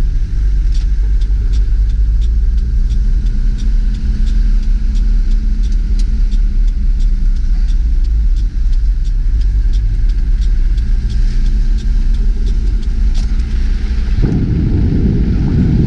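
Vehicle engine running steadily while driving, a low drone heard from inside the cab, with light regular ticking over it. About 14 seconds in it gives way to a louder, rough low rumble.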